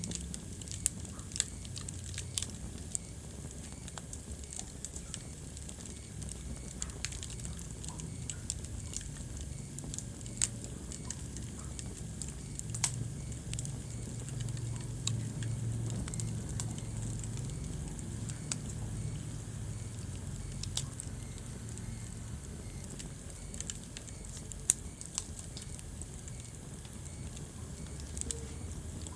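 Wood fire burning in a fireplace: irregular crackling with scattered sharp pops, the loudest about a second in and near the end, over a low steady rumble.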